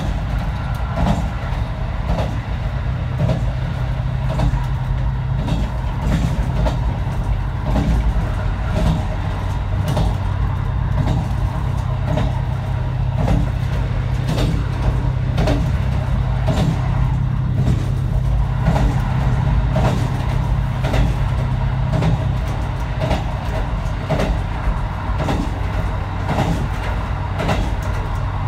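Diesel railcar running on jointed single track: a steady engine drone under a regular clickety-clack of the wheels over rail joints. The engine note drops a little about three quarters of the way in.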